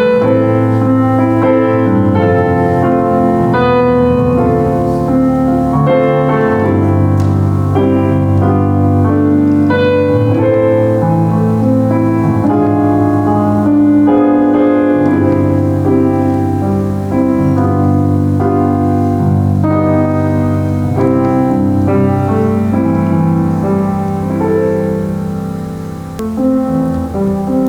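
Solo piano playing a slow worship song, with held bass notes under a melody and chords.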